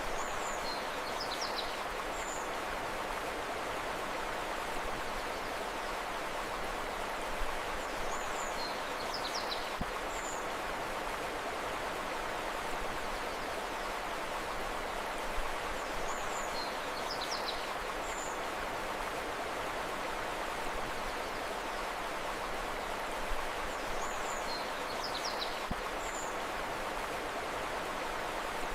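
Steady rushing of a flowing river, with a short burst of bird chirps repeated four times, about every eight seconds.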